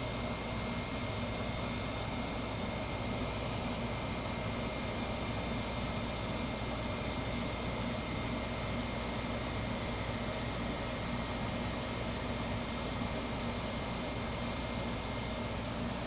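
Window air conditioner running with its compressor on and fans blowing: a steady hum and airflow noise with a faint constant high whine. The unit is cooling.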